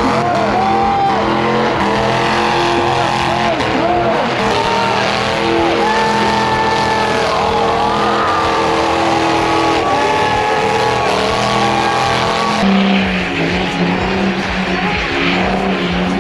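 Burnout car's engine revving hard, its pitch bouncing up and down for the first few seconds, then held high and steady with the tyres spinning on the pad. A little over twelve seconds in, the engine note drops lower.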